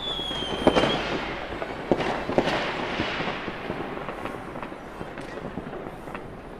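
Fireworks going off: a firework's whistle falling in pitch stops about a second in, followed by scattered bangs and crackling firecrackers that thin out over the next few seconds.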